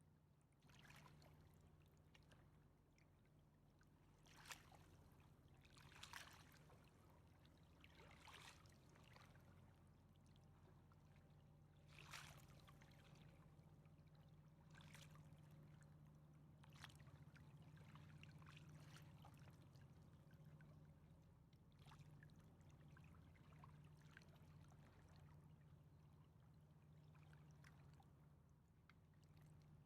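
Faint river water lapping and splashing irregularly against the shore, every second or two, over a steady low hum.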